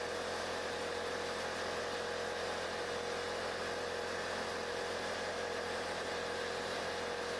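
A steady machine hum or whir with a constant mid-pitched tone, unchanging throughout.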